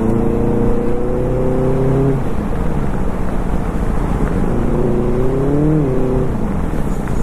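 Motorcycle engine under way, its note climbing for about two seconds and then dropping as it shifts up, then climbing again and dropping near the end, over steady wind and road rush.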